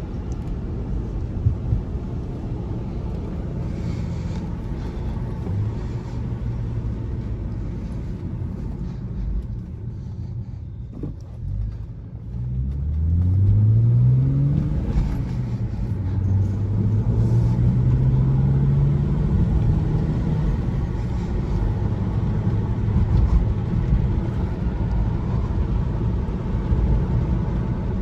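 2007 BMW 335xi's twin-turbo inline-six, fitted with an Injen cold air intake, running at a light cruise, then pulling harder with rising revs from about twelve seconds in. The revs drop at a gear change around fifteen seconds and climb again for several seconds before settling.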